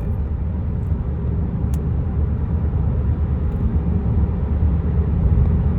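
Steady low rumble of a moving vehicle: road and engine noise.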